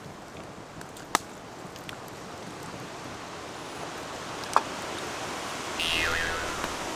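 Campfire burning, with a steady rush and two sharp pops of the firewood, about a second in and about four and a half seconds in. Near the end comes a short whistle that falls in pitch.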